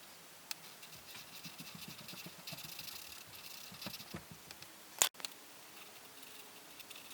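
Coloring strokes scratching across paper, a quick uneven scratching that begins about a second in. A sharp click sounds about five seconds in, louder than the rest.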